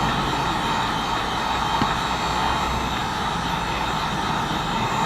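Heat gun running steadily, its fan blowing hot air to soften the screen adhesive.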